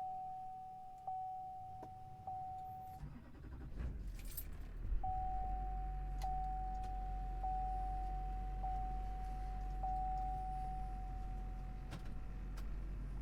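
A dashboard warning chime sounds as a steady high tone with a light tick about every second, pauses, then resumes. About four to five seconds in, the 2004 GMC Sierra 2500 HD's 6.6 L Duramax V8 diesel starts and settles into a steady low idle under the chime.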